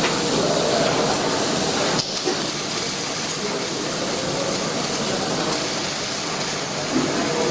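Steady machine noise of a welding workshop: a dense hiss rich in high tones, with sharp clicks at the start and about two seconds in.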